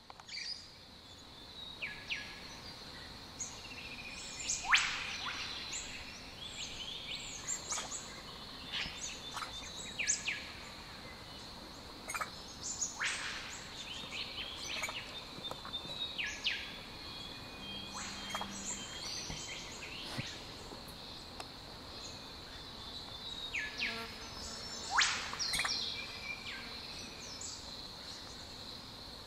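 Forest birds calling: short whistled notes, several sweeping sharply down in pitch, the loudest about five, thirteen and twenty-five seconds in, over a steady high-pitched drone.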